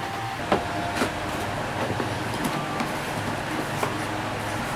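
Cooking-pan packaging being handled: a few sharp knocks and clicks over a steady low hum.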